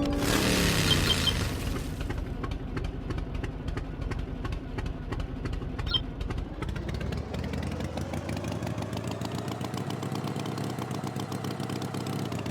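Tractor engine running. It is loudest for the first two seconds, then settles, and its pitch sinks and then slowly rises again.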